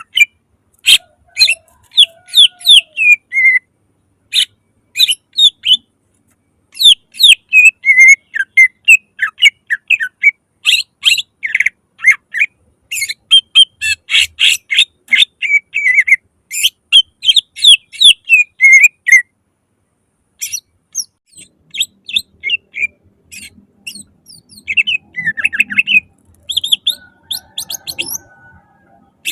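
Cucak ijo (green leafbird) singing a loud, rapid string of chirps and whistled notes in quick bursts. It pauses briefly about two-thirds of the way through, then resumes more softly.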